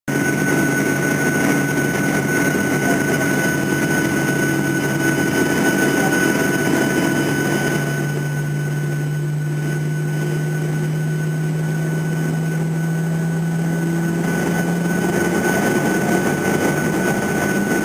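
Boeing 737-800's CFM56-7B jet engines running, heard inside the passenger cabin: a steady drone with a high whine above it. The low hum steps up slightly in pitch about eight seconds in and settles back down near the end.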